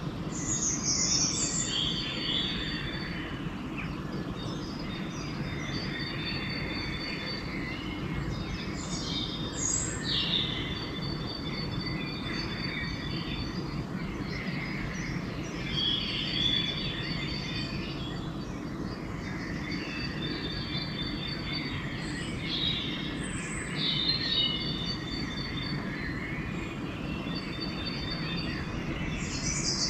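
Pre-dawn chorus of several songbirds singing in overlapping phrases, with a high, rapid trill recurring every few seconds. A steady low rumble runs underneath.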